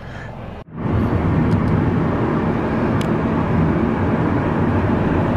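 A car driving: a steady engine hum with road and wind noise, starting abruptly about a second in.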